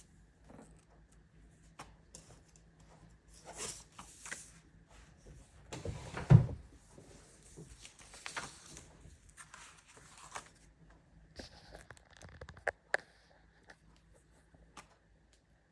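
Handling noises: short rustles, light clicks and knocks, with one louder thump about six seconds in.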